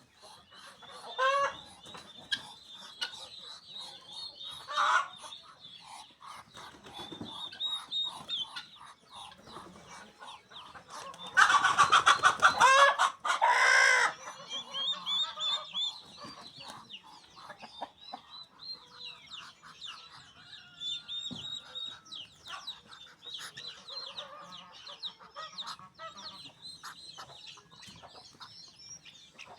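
A flock of chickens clucking and calling, with many short high chirps throughout. One loud, drawn-out call about 12 seconds in lasts a couple of seconds.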